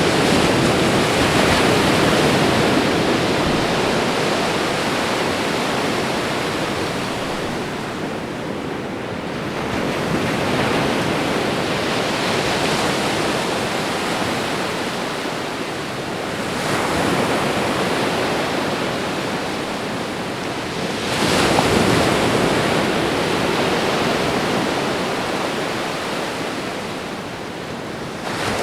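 Ocean waves breaking and washing onto a shore, a continuous surf noise that swells with each wave, about every five to ten seconds, with the strongest surges near the start and about two-thirds of the way through.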